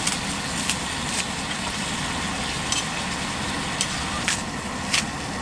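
Beef steak and vegetables sizzling on a hot griddle, a steady frying hiss with scattered sharp pops of spitting fat.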